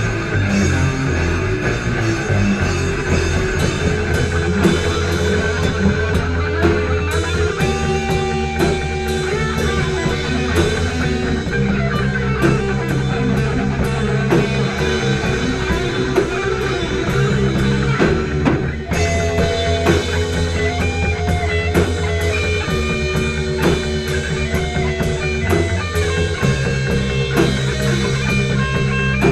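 Instrumental rock passage: guitars playing melodic lines over bass and a drum kit, with no singing.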